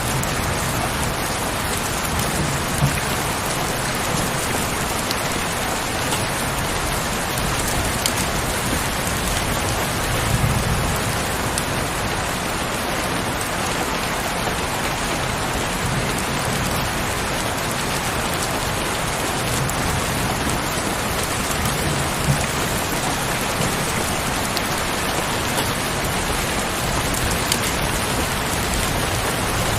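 Heavy rain falling steadily, a dense even hiss with a few sharper drop ticks. Several brief low rumbles come and go, the strongest about ten seconds in.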